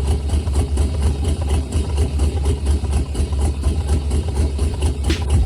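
Classic car's exhaust idling with a steady, deep rumble.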